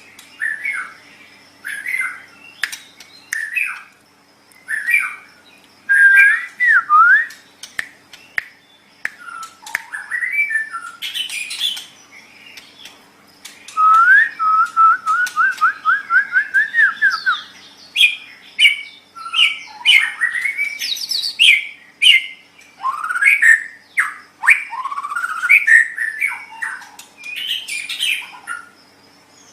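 White-rumped shama (murai batu) singing: a varied string of loud whistled phrases with sweeping rising and falling slurs and sharp clicks. About midway it gives a quick run of roughly a dozen repeated notes.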